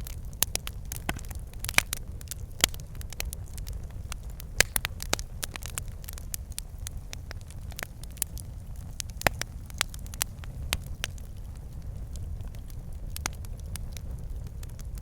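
Wood fire burning in a fireplace: logs crackling and popping in irregular sharp snaps over a steady low rumble of the flames, the pops thicker in the first half.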